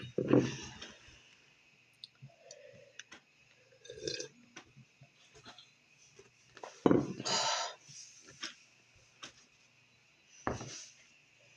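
Scattered knocks, clinks and rustles of dishes, food containers and utensils being handled, with a louder clatter about seven seconds in.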